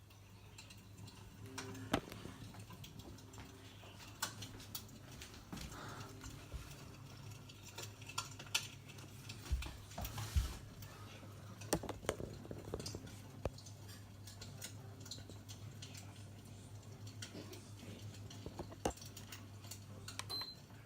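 Recording of burning firewood crackling, played back through a small MP3 speaker: irregular pops and snaps over a steady low hum. It cuts off suddenly near the end.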